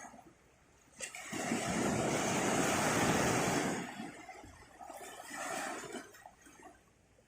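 A sea wave breaking and washing up the beach: a rush of surf that comes in suddenly about a second in, holds for a few seconds and then drains away.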